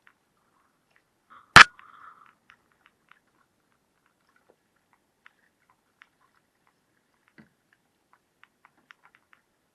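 A single sharp knock about one and a half seconds in, followed by a brief rustle, then scattered faint clicks and taps.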